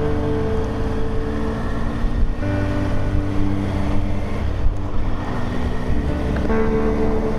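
Motorcycle engine and wind rush while riding at road speed, with sustained background music chords over it that change a couple of times.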